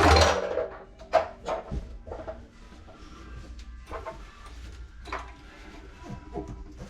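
Hand work on plumbing pipe and fittings. A loud scraping rush at the start, a sharp knock about a second in, then scattered lighter clicks and scrapes.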